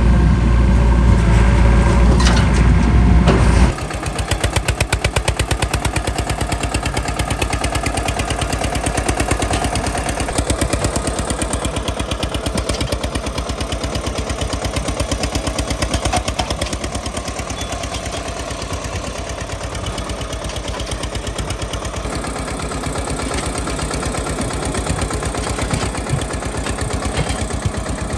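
Eicher 242 tractor's single-cylinder diesel engine running with a steady, rapid chugging. A heavy low rumble over it stops abruptly a few seconds in.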